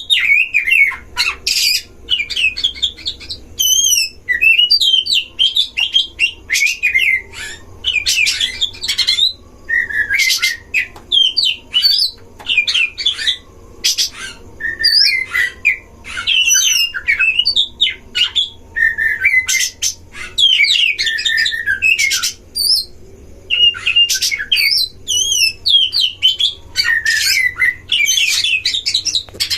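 Oriental magpie-robins (kacer) in a singing duel: dense, loud, varied phrases of whistled slurs and trills broken up by short harsh rasping notes, with brief pauses between bouts.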